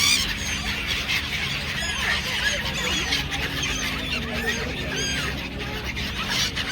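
A flock of birds calling, with many short calls overlapping and repeating throughout.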